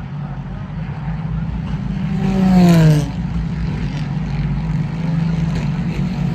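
An IMSA race car's engine passing by about two and a half seconds in, loudest as it goes past with its pitch dropping, over a steady low hum.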